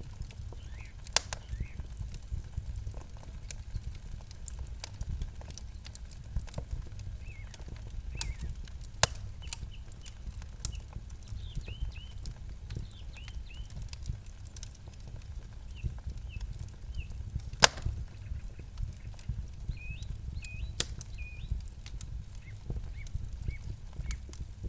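Campfire crackling, with frequent sharp pops and snaps over a steady low rumble; the loudest pops come about nine seconds in and again past halfway. Short high bird chirps sound now and then.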